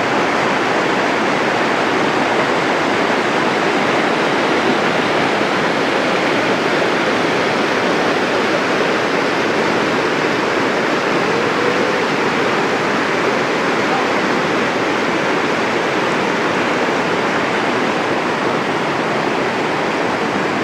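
Floodwater rushing in a torrent after heavy rain: a loud, steady wash of flowing water.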